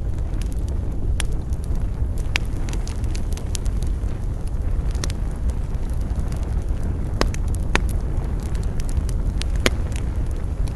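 Campfire burning: wood crackling with irregular sharp pops, a few louder snaps spread through, over a steady low rumble.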